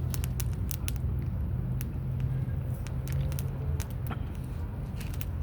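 Wood campfire crackling, with sharp pops and snaps scattered through a steady low rumble.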